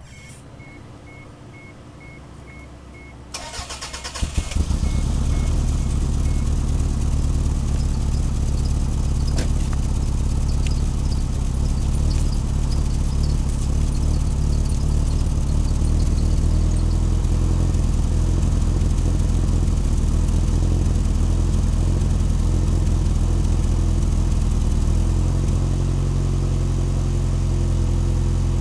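Car engine cranked by the starter about three seconds in, catching after about a second and then idling steadily. The idle note shifts slightly near the end.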